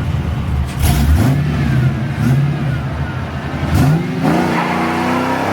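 Chevrolet C10 pickup's engine revving through its custom exhaust, with the revs rising and falling in throttle blips and a longer climb near the end.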